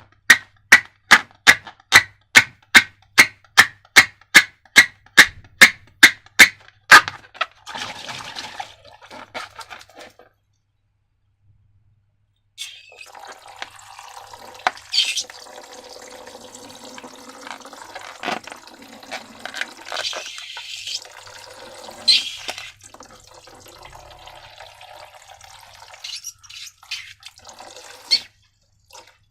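A run of about twenty sharp, evenly spaced clicks, roughly three a second, stops about seven seconds in. After a short silence come wet, sticky squelching and liquid sounds of slime being worked, with a few louder clicks among them.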